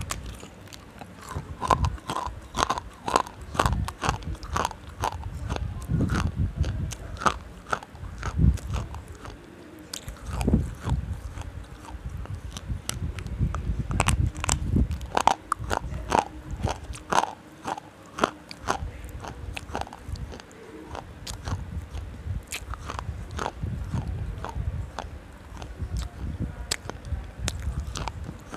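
A person biting into and chewing a hard white chalk-like block, with many sharp, irregular crunches and low chewing sounds between them.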